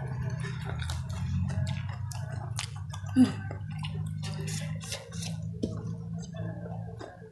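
Close-miked chewing of fried vegetable fritters (bakwan): wet mouth clicks and smacks over a steady low hum. A single louder thump comes about three seconds in.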